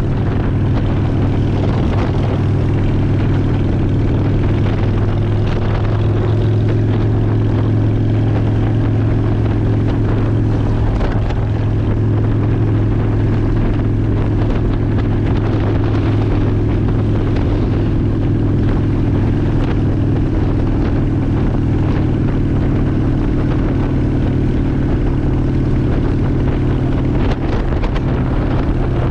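Honda Shadow ACE 750's V-twin engine running steadily at an even speed.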